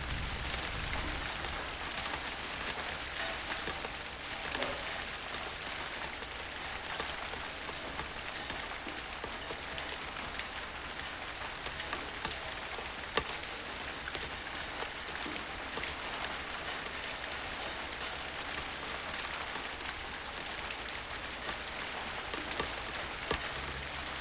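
Steady rain falling, an even hiss dotted with sharp individual drop ticks. The tail of a low thunder rumble fades out about a second in.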